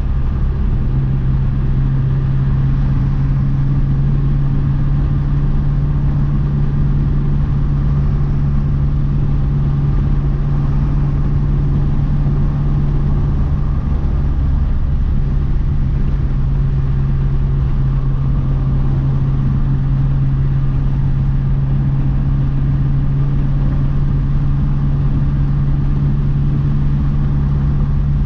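Big-turbo 2012 Mazdaspeed 3's turbocharged 2.3-litre four-cylinder engine running at a steady speed: an even drone that holds one pitch, with low road rumble under it and no revving.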